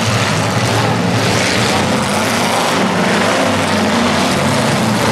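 Engines of several demolition derby cars running together in a steady, loud din.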